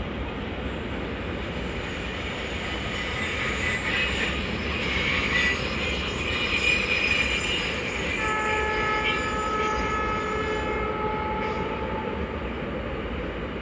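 Freight train of container flat wagons rolling past at speed, a steady rumble and clatter of wheels on rail. About eight seconds in, a steady high tone of several notes sounds for about three seconds.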